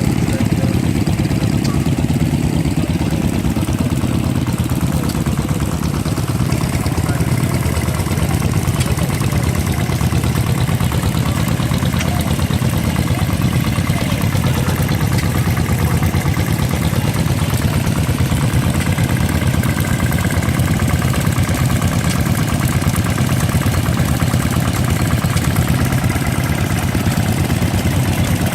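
An engine running steadily at an even idle, a rapid low pulsing that does not change.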